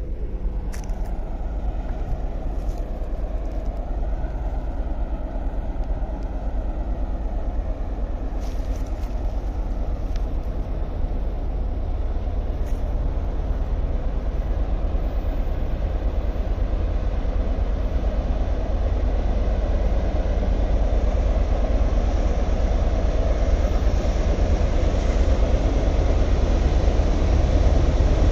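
Intermodal freight train passing close by as it climbs a mountain grade: a steady deep rumble with rolling noise that slowly grows louder.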